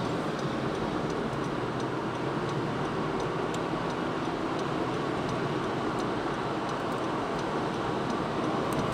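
Steady noise of a vehicle on the move, with a few faint ticks.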